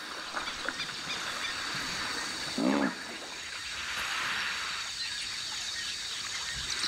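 Outdoor wildlife ambience: a steady high hiss and buzz, with one short, pitched animal call a little before the middle.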